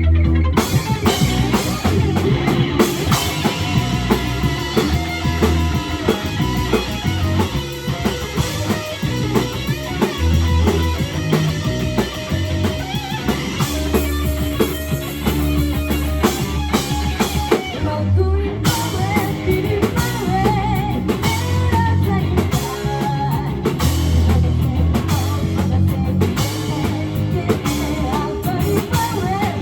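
Rock band playing live: drum kit, bass and electric guitar, with a brief break about two-thirds of the way through.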